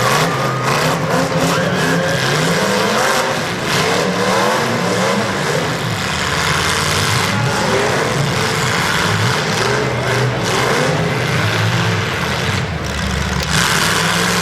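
Several demolition derby cars' engines revving at once, pitches rising and falling, with a few short thumps among them.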